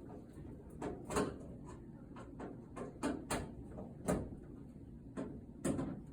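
Screws being driven back into the clothes dryer's metal back panel: irregular clicks and knocks of a screwdriver and screws against sheet metal, several of them louder knocks.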